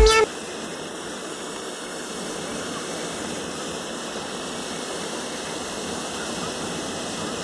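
Waterfall water rushing in a steady, even hiss. A music track cuts off right at the start.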